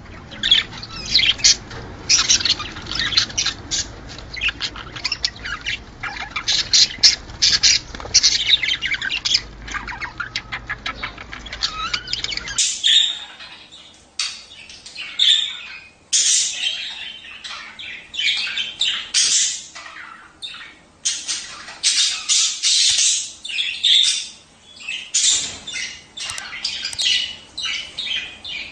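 Several budgerigars chattering, with rapid warbling chirps and harsh squawks. About halfway through, the low background hum stops abruptly and the chatter continues over a quieter background.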